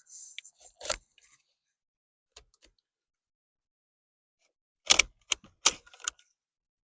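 Sharp metallic clicks and knocks from handling turn signal parts on a steering column: one about a second in, then a quick cluster of five or six about five seconds in.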